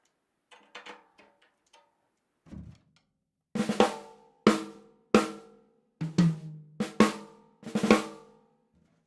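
Snare drum with a coated batter head, snares on: a few light taps, then from about three and a half seconds in a series of hard strokes, each ringing on with a lot of overtones, the sound of a head tuned fairly high but not yet fine-tuned.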